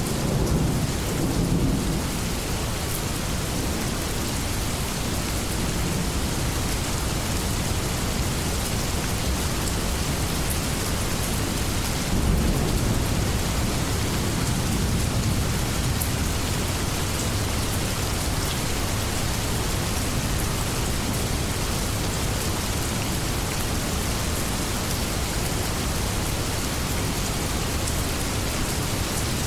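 Steady heavy rain falling, with thunder rumbling: a roll of thunder dying away over the first couple of seconds and another low rumble about twelve seconds in.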